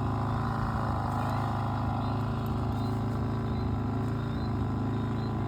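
A steady engine drone runs without changing, with a few faint short high chirps over it.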